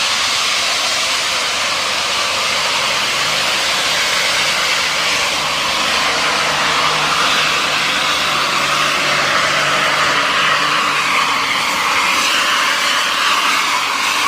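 Hino RK8 bus's diesel engine running through a 'jet darat' aftermarket exhaust, giving a loud, steady, jet-like rushing hiss with a faint low hum underneath.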